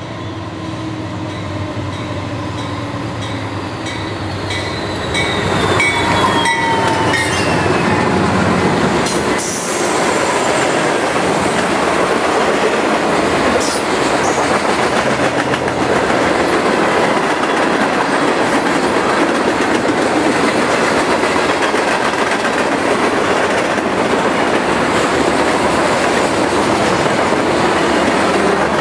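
Two Norfolk Southern diesel locomotives pass close, their sound sliding down in pitch as they go by. Then the tank cars and covered hoppers roll past with steady wheel-on-rail noise.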